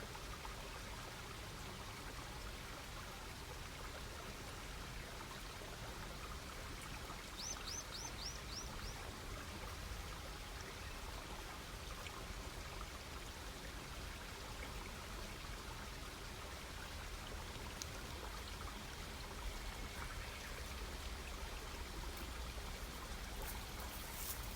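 Wood campfire burning with a steady hiss and scattered crackles, with a few sharp pops near the end. About seven seconds in, a bird gives a quick run of five short high notes.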